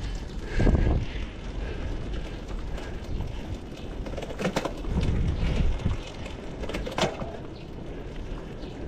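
Gravel bike riding noise: wind rushing over the action camera's microphone and tyres rolling on the road in a steady low rumble. There are a few louder bumps with sharp clicks, about a second in, around five seconds and near seven seconds.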